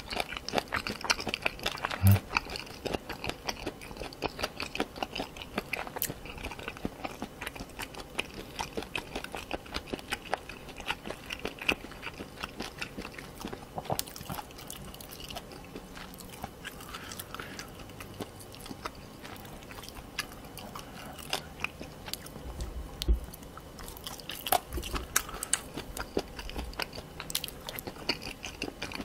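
Close-miked chewing of crunchy spicy stir-fried pork cartilage (odolppyeo), a steady run of irregular crisp crunches and wet chewing, with one sharp crunch about two seconds in.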